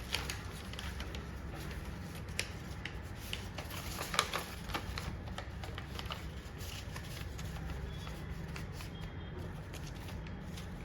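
Sheet of origami paper being opened out and its folds pressed flat to sharpen the creases: irregular crinkling rustles and sharp paper crackles, the loudest about four seconds in, over a steady low hum.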